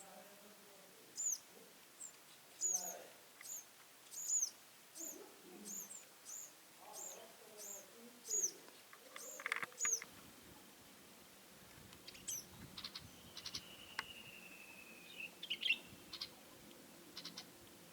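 Small birds calling: a run of short, high chirps, about two a second, through the first half, then sparser sharp ticks and a thin, slightly falling whistle.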